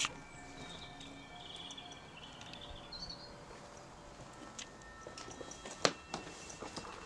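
Faint bird chirps and a short warbling call over quiet background hiss in the first few seconds. A sharp knock about six seconds in is the loudest sound, with a few softer taps around it.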